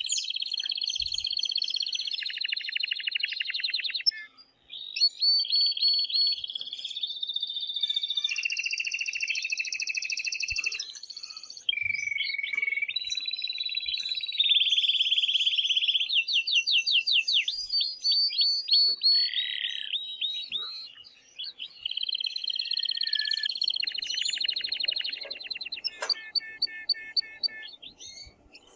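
Male domestic canary singing a long, excited song of rapid trills and rolls, one phrase running into the next with only brief breaks. It is the male's courtship song, meant to stimulate a female to mate.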